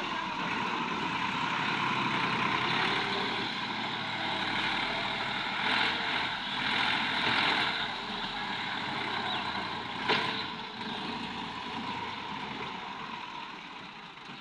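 Tractor engine running steadily, with one sharp knock about ten seconds in.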